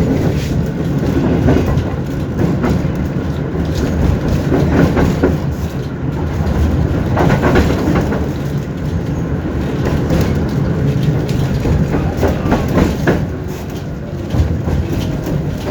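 Electric tram running along its track, heard from inside the passenger car: a steady low rumble with irregular clacks and knocks as the wheels pass over rail joints.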